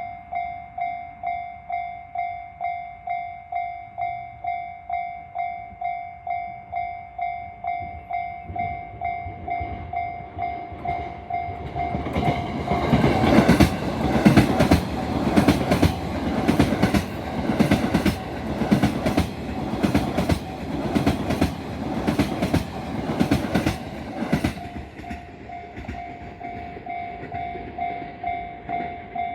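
Level-crossing warning bell (JR standard electronic tone) ringing in steady pulses, about one and a half a second. Partway through, a JR East E657 series electric express train approaches and rushes past for about twelve seconds, its wheels clacking over the rail joints in repeated quick clicks and drowning out the bell, which rings on alone after the train has gone.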